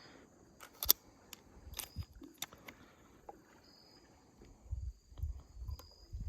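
Handling noise in a kayak: a few sharp clicks and knocks, the loudest just under a second in and another near two seconds, then a run of low bumps and thuds near the end, as a freshly caught bowfin is hooked onto a fish scale to be weighed.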